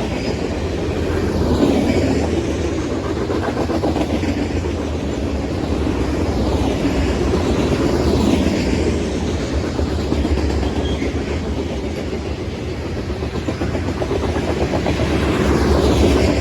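Freight train cars rolling past, steel wheels rumbling and clacking over the rail joints in a continuous run with slow swells in loudness.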